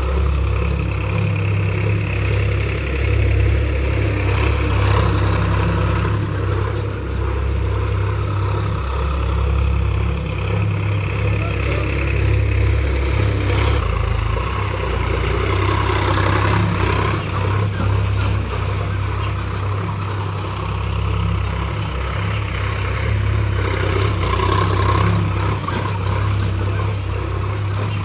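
Sonalika 35 tractor's diesel engine running steadily with a deep, even hum, with a few brief louder rattling stretches.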